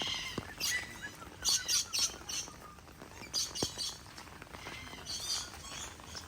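Birds chirping in a series of short, high-pitched bursts that come and go every second or so.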